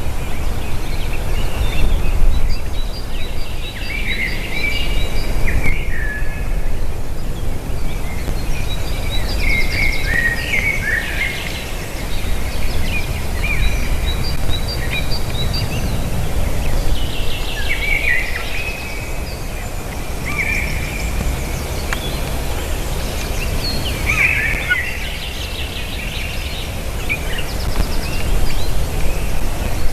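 Bird of prey calling: clusters of short, high chirping calls every few seconds, which the uploader thinks may be a buzzard. A steady low rumble of wind on the microphone runs underneath.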